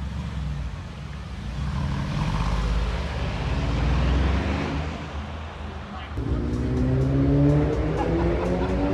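A sports car engine running at low revs with a deep, steady note. From about six seconds in the engine note climbs steadily as it is revved up.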